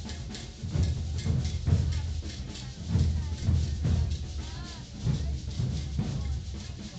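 Maracatu percussion group playing on the move: deep alfaia bass drums beating in a driving rhythm, with sharper, brighter strokes layered over them and voices mixed in.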